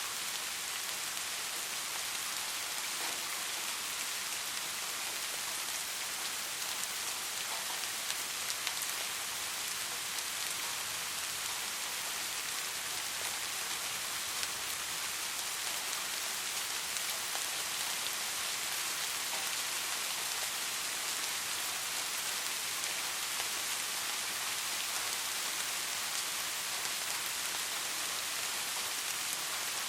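Steady rain falling, a dense even hiss of raindrops with faint individual drop ticks.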